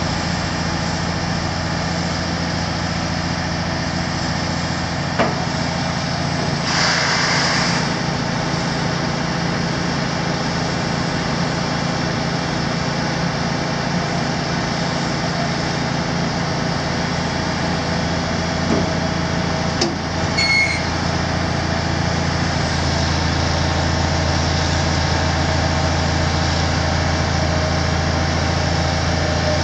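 Kenworth T300 truck's diesel engine idling steadily, with a short hiss about a quarter of the way in and a few sharp clicks. Past the middle the engine's low hum grows stronger.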